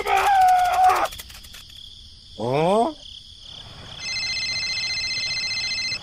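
Cartoon sound effects: a short high-pitched squeaky character voice, then a quick rising whistle glide about two seconds in, then a steady electronic phone tone for the last two seconds. A constant high insect-like chirring runs underneath.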